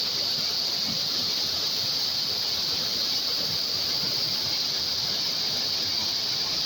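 Waterfall in full flow: a loud, steady rush of falling water with no change.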